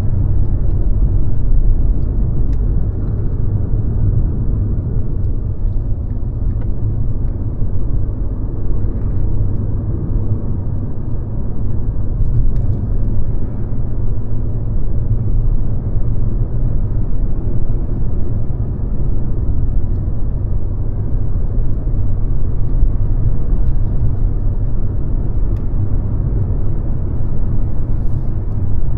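Mercedes-Benz C-Class (W206) on the move: a steady low rumble of engine and road noise, with a few faint ticks.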